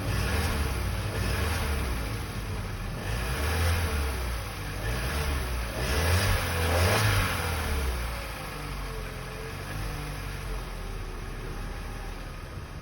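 Opel Z14XEP 1.4-litre four-cylinder petrol engine revved up and dropping back several times, with the biggest rev about six to seven seconds in, then settling to a steady idle. The engine is run to show a knock in it.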